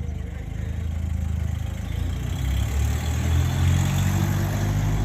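A car engine running with a deep, even note, revving up a little about two seconds in as its pitch and loudness climb.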